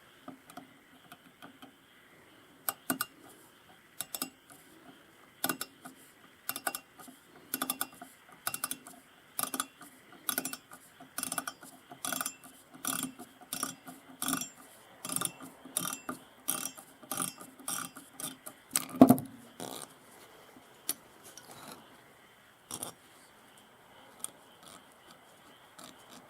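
Small metal clicks and taps, roughly two a second, from hand tools and parts being worked during a carburetor disassembly, with one louder knock near the end.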